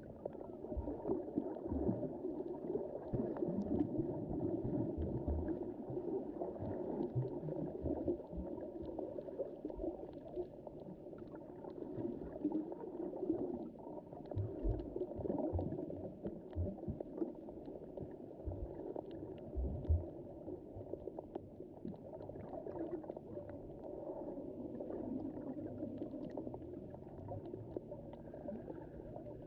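Underwater sea ambience as heard through a submerged camera: muffled sloshing and gurgling of moving water, with a few low thumps and faint scattered ticks.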